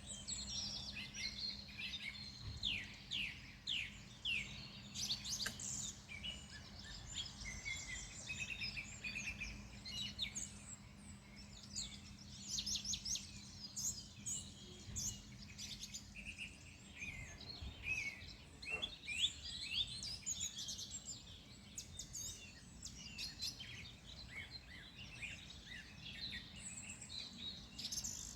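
Several wild birds chirping and singing over one another, quick high chirps and trills throughout. A faint low steady hum sits underneath and fades out about halfway through.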